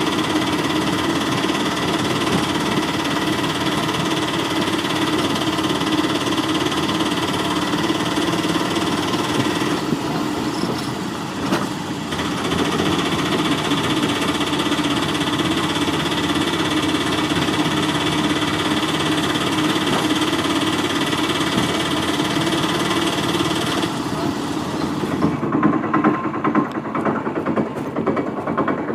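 Small electric motor and plastic gears of a toy vehicle running with a steady buzzing whine. It dips briefly about a third of the way in and turns to a rougher rattle near the end.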